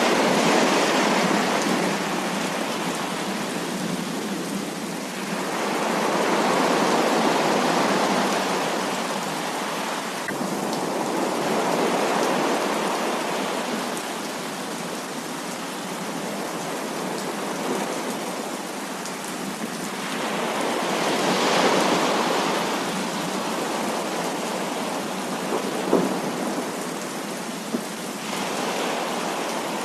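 Heavy rain falling steadily, with rolls of thunder that swell and fade several times. Two brief sharp taps come near the end.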